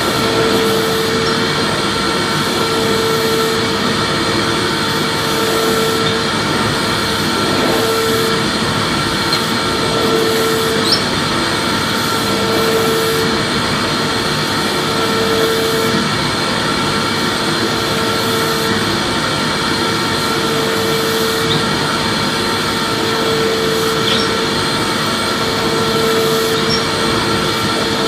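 Vacuum cleaner motor running steadily, a loud, even whooshing hum with a high whine on top. A lower hum swells and fades about every two and a half seconds.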